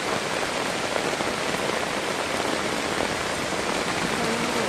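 Heavy rain pouring down, a dense, even hiss loud enough to drown out speech. Mixed in is runoff water rushing along a stone-lined roadside drain.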